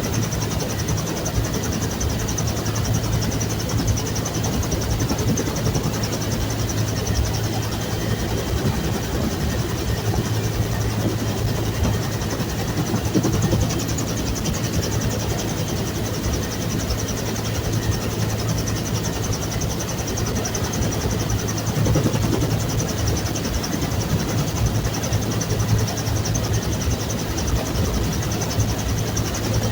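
Bell UH-1 Huey helicopter's turbine engine and rotor running steadily: a loud, even noise with a constant low hum and a steady high whine.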